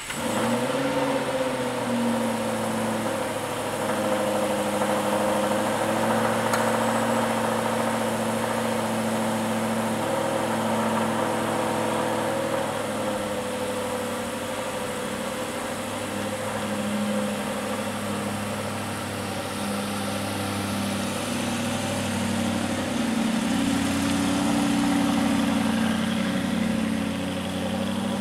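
Aston Martin V8 Vantage's V8 idling just after starting: the revs drop and settle within the first two seconds, then hold a steady idle. The note rises a little near the end as the car pulls away.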